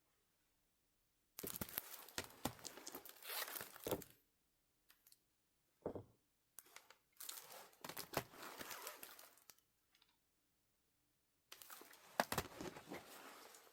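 Album packaging being torn open and crinkled by hand: three bursts of tearing and rustling with sharp crackles, separated by short pauses.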